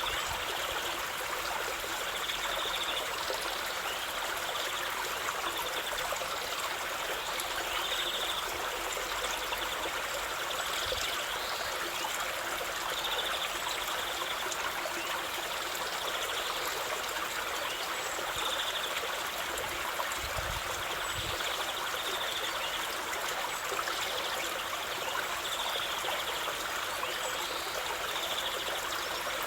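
A stream running steadily, an even rush of flowing water. Short high chirps recur every second or two over it.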